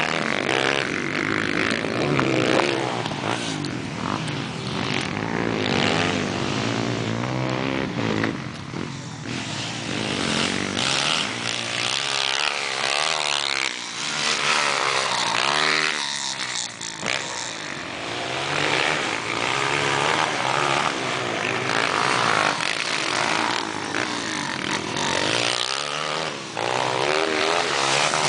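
Several motocross motorcycles racing, their engines revving up and down in pitch, overlapping with one another.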